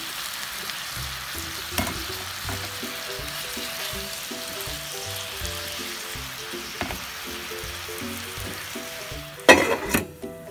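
Chicken and pineapple sauce sizzling steadily in a cooking pot, with a few light clicks. A loud clatter comes near the end, and then the sizzle cuts off.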